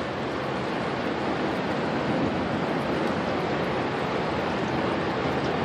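Steady rushing storm wind, an even roar that holds at the same level without a break.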